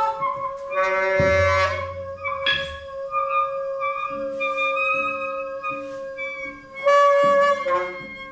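Group of musicians on several wind and other acoustic instruments improvising together. One steady note is held throughout, other sustained tones overlap it, and loud blasts come about a second in and again near the end.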